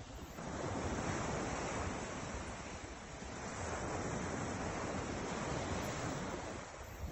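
Ocean surf washing onto the shore: two swells of rushing water, the first from about half a second in, the second from about three and a half seconds, easing off shortly before the end.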